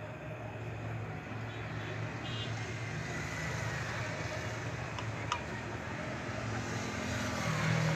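A steady low hum over background noise, like distant traffic, with a faint small click about five seconds in.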